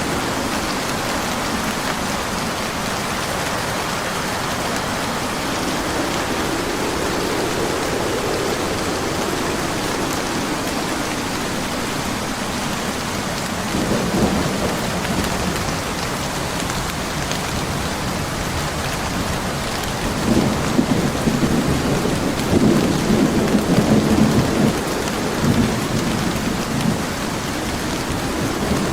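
Steady heavy rain with thunder rumbling, a brief low roll about halfway through and a louder, longer stretch of rolling thunder in the last third.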